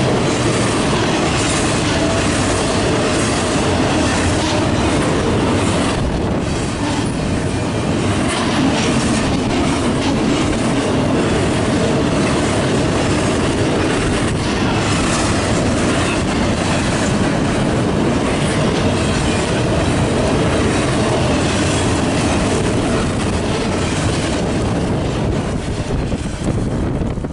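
A double-stack intermodal container train's well cars rolling past close by: a steady loud rumble and clatter of steel wheels on the rails.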